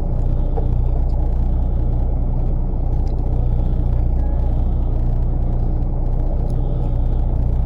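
Fishing boat's engine running steadily: a constant low engine hum with a rumble.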